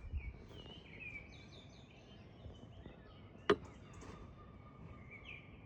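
Faint bird chirps and short whistled calls over a quiet outdoor background, with one sharp click about three and a half seconds in.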